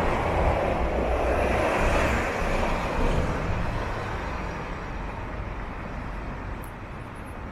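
Downtown street traffic: a vehicle passing close by, its noise loudest at first and fading away over the following seconds.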